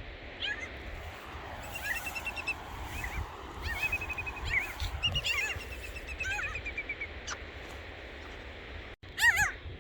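Several birds giving alarm calls while defending a nest: fast chattering runs of notes and sharp down-curving calls overlap through the middle, with one loud call just after nine seconds. Wind rumbles on the microphone underneath.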